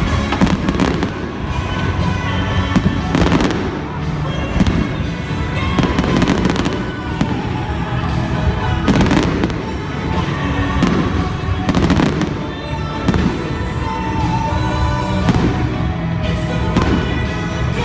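Fireworks bursting every second or two, with music playing underneath.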